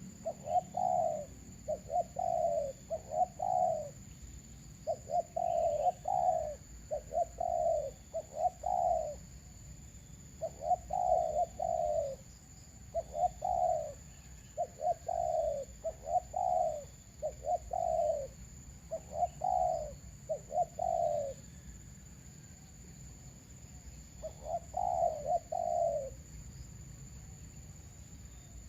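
Doves cooing over and over in groups of two or three falling coos, with a short pause a few seconds before the end. The calls come from a decoy and wild dove calling match.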